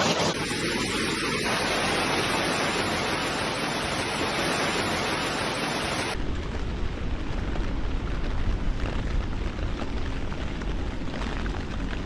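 Heavy hail and rain pelting down in a dense, steady roar of noise. About six seconds in it cuts abruptly to another recording of the storm, duller and with more low rumble.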